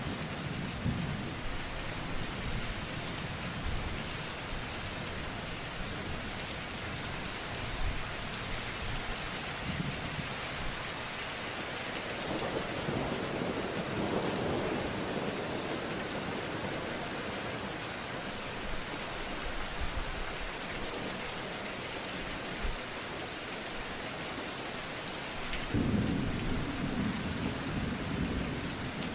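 Steady heavy rain with low rolls of thunder, one about halfway through and another near the end.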